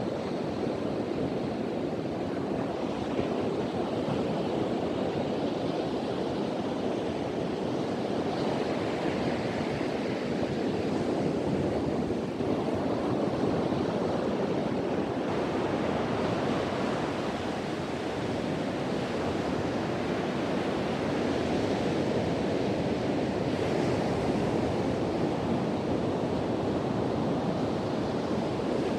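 Ocean surf breaking and washing on a beach in a steady wash, swelling and easing slowly, with wind blowing across the microphone.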